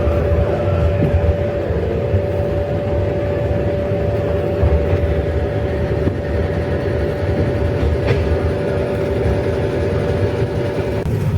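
Running noise heard inside a JNR Series 12 passenger coach hauled by an electric locomotive: a steady low rumble from wheels on the track. A steady high tone runs through it and stops near the end.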